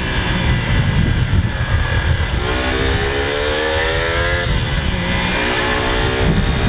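Motorcycle engine accelerating: its note rises steadily, drops suddenly about four and a half seconds in at a gear change, then pulls again, over a steady rush of wind noise on the microphone.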